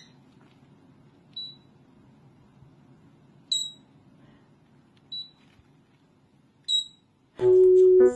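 Four short, high-pitched peeps, spaced a second or two apart, over a faint low hum, typical of a parrot's contact calls. Near the end a loud, steady whistled note starts and holds for under a second.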